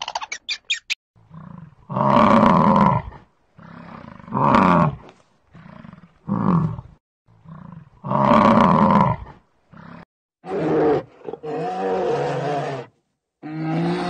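A series of deep, loud roaring bellows from a large animal, one every second or two. Typical of bison bellowing. A few short high chirps come right at the start.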